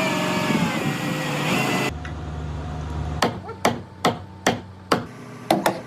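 A steady noise with faint gliding tones that cuts off abruptly about two seconds in. About a second later a run of sharp hammer blows begins, seven in all, a little over two a second.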